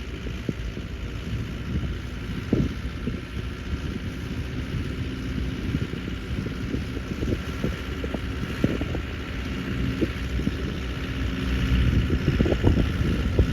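Lovol tractor engine running steadily while working snow, with rough, crackly wind noise on the microphone. It grows somewhat louder near the end.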